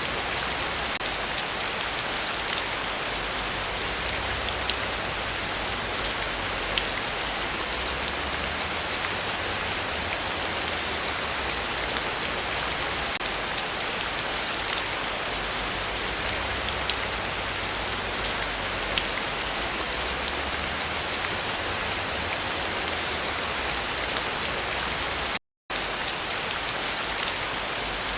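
Heavy rain falling steadily, a dense hiss with fine drop patter. The sound cuts out completely for a split second near the end.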